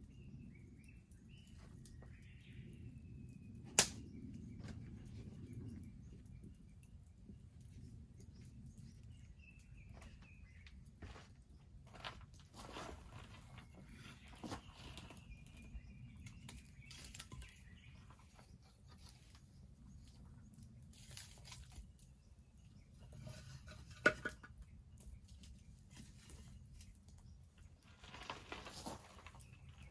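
Wood bonfire burning with a steady low rumble and scattered crackles, two sharp pops standing out, one about four seconds in and one a little after twenty seconds. Faint bird calls are heard in the background.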